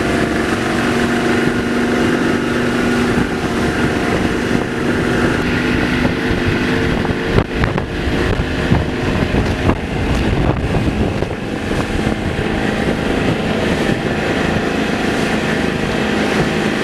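Motorboat engine running under way, with wind buffeting the microphone and rushing water. A few sudden knocks come about halfway through.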